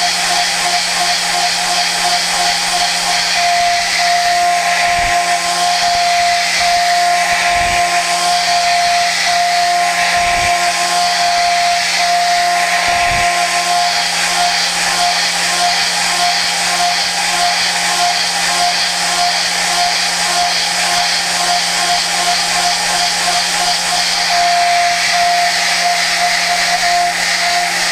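Okuma GENOS M560V vertical machining centre milling prehardened 4140 steel at high speed with a Sandvik Coromant cutter: a steady high-pitched singing tone of the cut over a steady hum and hiss. Four brief low thumps come in the first half.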